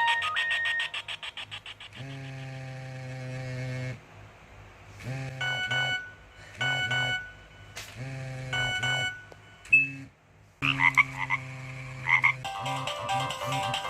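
Nokia 1110i ringtones played in turn on the phone's speaker. A fast run of repeating electronic notes ends near the start. Then comes a ringtone of low buzzing tones, one held and then several short bursts, and a new note melody begins near the end.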